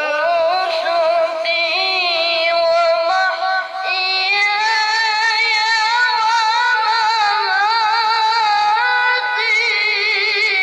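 A child reciting the Quran in the melodic tilawah style: long sung phrases in a high voice with ornate pitch turns and wavering vibrato, with a brief break about four seconds in before the next long phrase.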